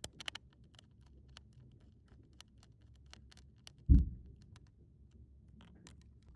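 Small plastic toy pieces clicking and tapping as they are handled, light irregular clicks with one soft, low thud about four seconds in.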